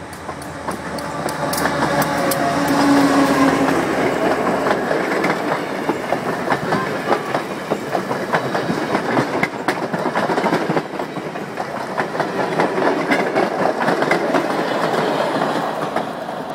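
A diesel-hauled passenger train passing close by: the locomotive's engine hum swells and peaks about three seconds in, then the coaches roll past with a dense, steady clatter of wheels on the rails that fades as the caboose goes by near the end.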